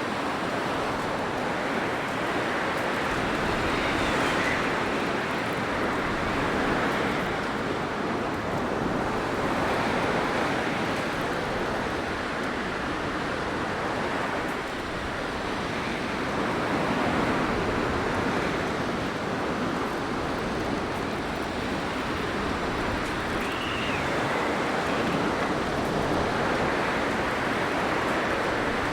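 Blizzard wind blowing as a steady rushing noise that swells in gusts every few seconds, with a faint brief whistle about four seconds in and again near the end.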